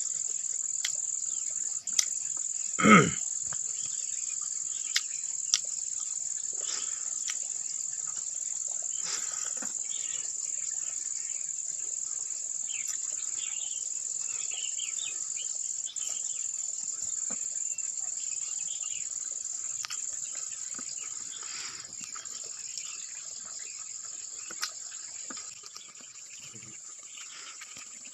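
Insects, likely crickets, trilling in a steady high-pitched drone, with one loud knock about three seconds in and a few faint clicks.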